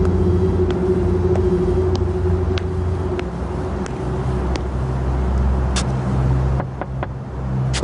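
A car engine idling, with footsteps on paving stones at a walking pace, about one every half second.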